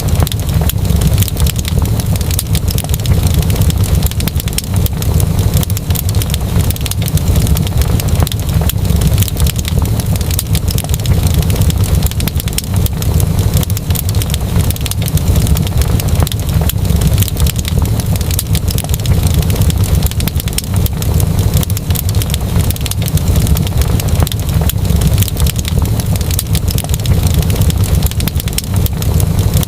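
Fire in a fireplace crackling, with a steady low rumble and many small pops and crackles throughout.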